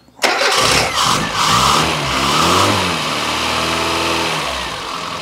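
A cold Austin Metro's BMC A-series engine with an SU carburettor starts up suddenly, is blipped up and down in revs, then settles into a fast idle. Its mixture has just been leaned off a full turn, but the mechanic judges it still too rich.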